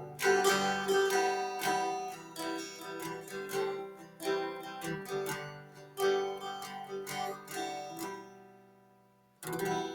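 Background music: a plucked acoustic guitar playing a run of picked and strummed notes that dies away about eight seconds in, then one last strummed chord near the end.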